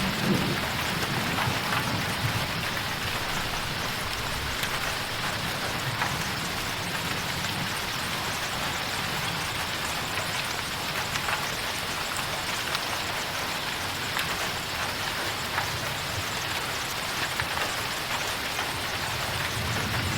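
Heavy rain drumming steadily on a tin roof, a dense hiss flecked with countless individual drop ticks. A low rumble sits under it in the first second or two.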